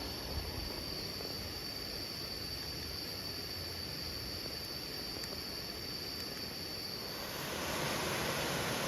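Insects keep up a steady, high-pitched drone over a continuous rush of water. About seven seconds in, the insect drone cuts off and a louder, fuller rush of water takes over.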